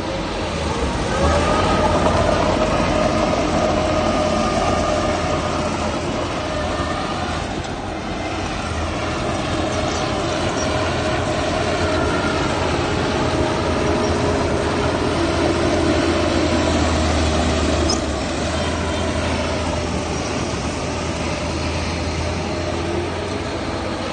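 Heavy diesel earthmoving machinery running steadily: a low engine rumble with a higher whine over it that shifts a little in pitch.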